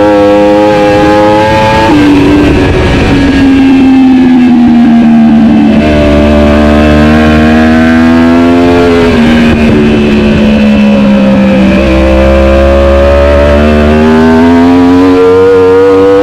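Superbike race engine at high revs, its pitch climbing and sliding away through a lap, with abrupt steps at each gear change: a sudden drop about two seconds in, jumps up near six and twelve seconds, and a steady climb toward the end.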